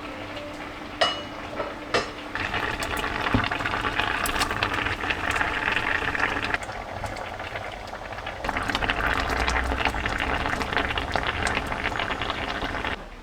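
Food sizzling and crackling in a hot pan, in two long stretches, after a few sharp clicks near the start.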